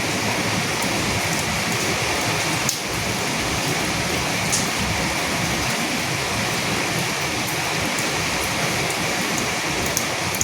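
Steady rain falling, an even hiss, with a few sharper drop hits standing out now and then.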